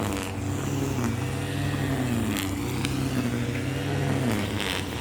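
A motor vehicle's engine running steadily, its pitch drifting up and down a little, with a few short clicks.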